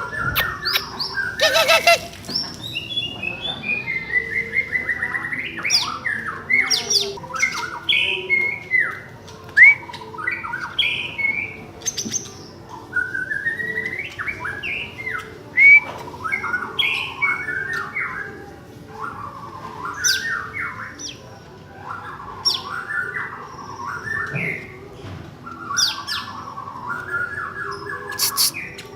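Cucak ijo (green leafbird) singing: a long, unbroken, varied run of quick chirps, whistled slurs and harsh squawky notes.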